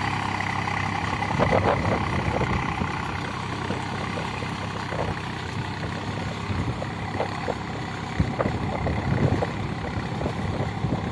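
Swaraj tractor's diesel engine running steadily under load as the tractor struggles through a muddy paddy field on cage wheels, with scattered irregular knocks over the engine drone.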